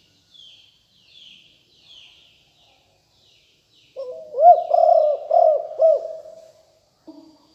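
Spotted dove cooing: about four seconds in, a loud coo phrase of several arching notes. Before it come faint high chirps of small birds.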